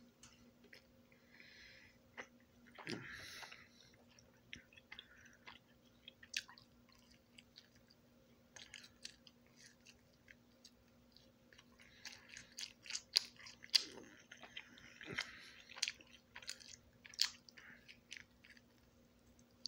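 Close-up chewing and biting of a slice of cheese pizza: many short, wet mouth clicks, thickest in the second half, with a short rush of noise about three seconds in. A faint steady hum runs underneath.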